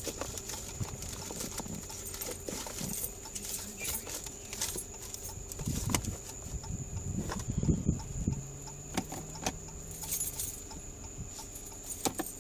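A set of keys jangling and clicking as they are handled and tried in the lock of a small locked box, with scattered rattles and knocks, the loudest about eight seconds in.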